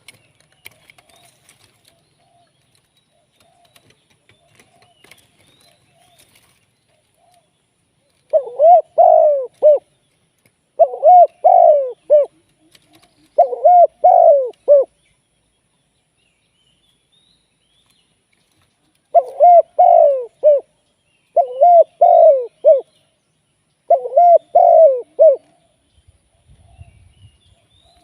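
Spotted dove cooing: six phrases of three or four coos each, in two groups of three separated by a pause of about four seconds, with fainter cooing in the first several seconds.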